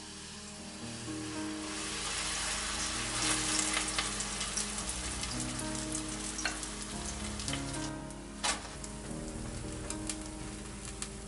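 Kimchi pancake batter sizzling as it fries in a nonstick frying pan, the sizzle swelling over the first couple of seconds, with scattered sharp crackles and pops.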